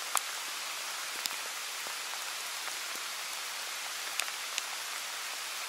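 Steady rain falling: a continuous even hiss with a few sharp drop ticks scattered through it, just after the start, about a second in, and twice a little past four seconds.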